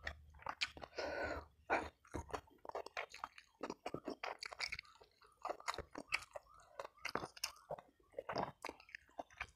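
Close-up eating sounds: chewing with wet mouth smacks and crunching bites of crisp food, in a rapid, irregular run of clicks.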